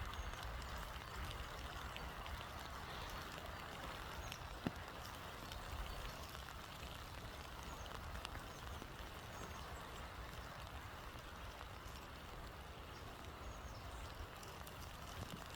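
Steady rain with gusting storm wind, the wind rumbling low on the microphone and raindrops ticking here and there, with one sharper tick about five seconds in.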